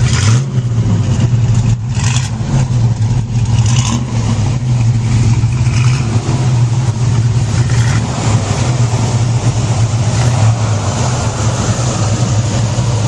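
Muscle car engine running loudly and steadily, with a strong low note throughout.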